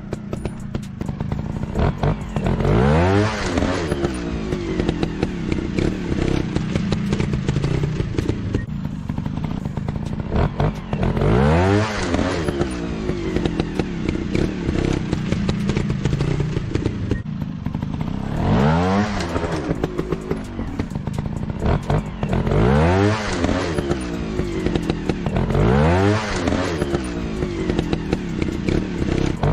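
Dirt-bike engine running with repeated quick revs, each a sharp rise and fall in pitch, about six times, over a steady lower engine note.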